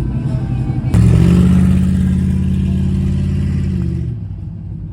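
A car engine comes in loud about a second in, its pitch climbing briefly before it holds steady at high revs, then dies away just after four seconds.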